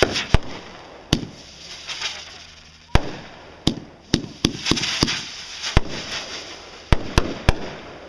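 Fireworks going off: about a dozen sharp bangs at uneven intervals, coming fastest around the middle, with a crackling hiss between them.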